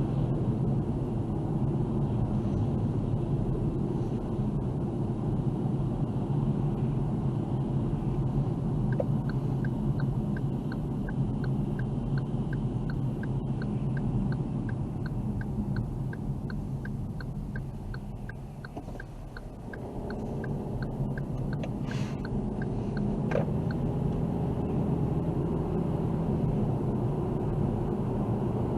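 Car driving, heard from inside: a steady low rumble of engine and tyres that dies down about two-thirds of the way through as the car slows, then builds again. Through the middle a turn-signal indicator ticks evenly, about twice a second.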